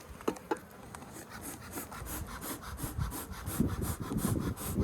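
Hand sawing or cutting on the wooden birdhouse: quick back-and-forth scraping strokes, about four a second, starting about a second and a half in, after a couple of sharp clicks.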